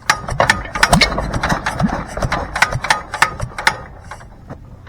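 Single-cylinder International Harvester McCormick-Deering LB engine firing briefly after hand-cranking: a run of sharp, irregular pops and knocks that die away after about four seconds, as the engine fails to keep running.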